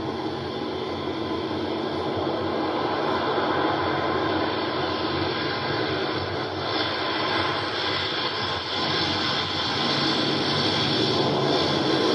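Twin turboprop engines of a U.S. Air Force C-27 cargo plane landing: a steady, noisy engine-and-propeller drone that grows somewhat louder.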